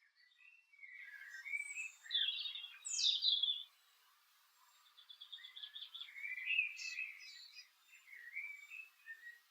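Garden songbirds singing: a string of short, varied high phrases, a brief pause, then a quick trill of rapidly repeated notes about five seconds in, followed by more phrases.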